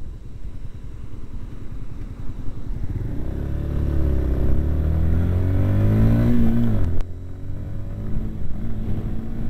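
Yamaha YBR 250 single-cylinder motorcycle engine accelerating: its pitch climbs for about four seconds from around three seconds in. It falls off sharply at a gear change, then runs steadily at lower revs, with wind and road noise throughout.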